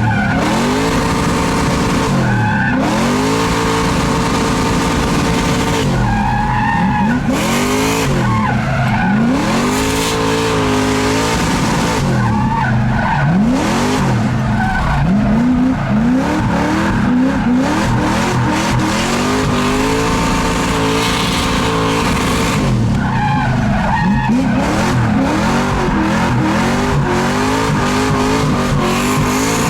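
Drift car's engine revving hard again and again, its pitch climbing and falling with each throttle stab, over tyre squeal as the car slides.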